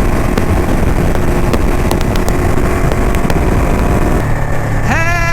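Ducati motorcycle riding at speed under heavy wind rush on the microphone. About four seconds in the wind drops and the engine's steady low note comes through as the bike slows, and near the end a person's voice rises sharply in pitch.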